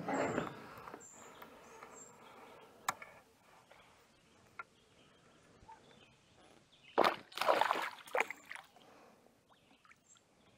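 Water splashing in a short flurry about seven seconds in, with scattered light clicks and knocks before it: a small bass being played and brought up to a kayak.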